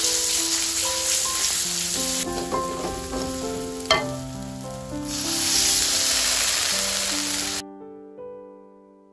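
Ground spice paste sizzling as it fries in hot oil in a wok while being stirred, with one sharp tap about four seconds in. The sizzle cuts off suddenly near the end, leaving soft background music.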